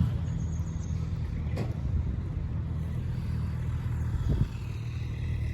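A motor vehicle engine running steadily at low revs, with a couple of short knocks and a faint high whine coming in near the end.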